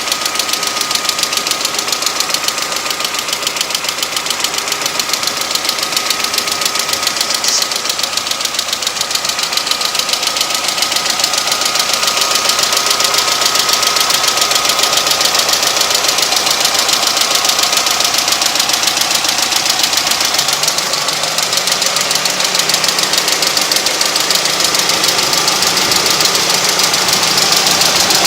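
Honda H23A 2.3-litre inline-four engine running steadily, with a fast, high tapping from the cylinder head and a low knock beneath it, which the owner wonders could be early rod knock.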